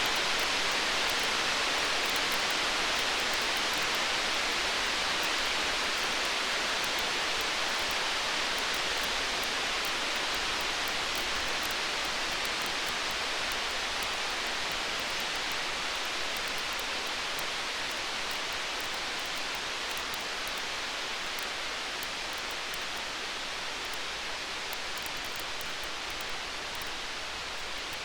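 Steady hiss of stormy-night ambience, slowly getting quieter, with faint tiny campfire crackles over it; no thunder rumble.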